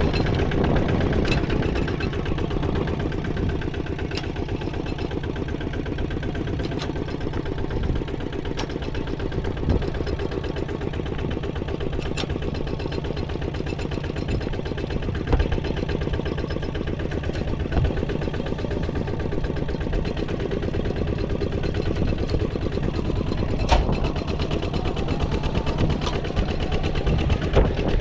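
An engine running steadily, with a few sharp clicks or knocks on top.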